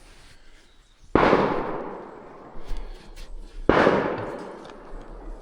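Two gunshots from hunters in the woods, about two and a half seconds apart, each a sharp crack that dies away over about a second.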